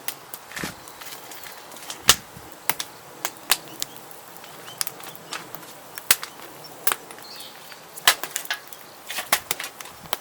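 Wood fire crackling in a fire pit: irregular sharp pops and cracks of varying loudness, a few a second, over a low background hiss.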